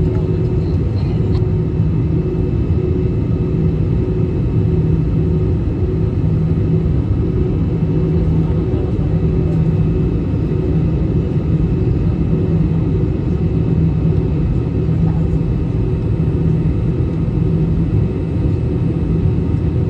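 Airliner cabin noise in flight: a steady, loud drone of engines and airflow with a constant low hum and a faint high whine.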